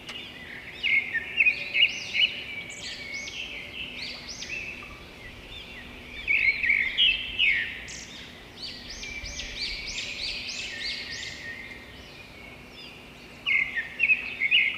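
Birds chirping and calling in a busy, varied chorus of quick high notes, with louder bursts about a second in, in the middle and near the end.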